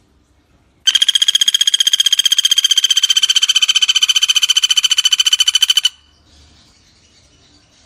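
Pelatuk bawang woodpecker calling: one loud, even, rapid trill of many quick notes, starting about a second in and lasting about five seconds before stopping abruptly.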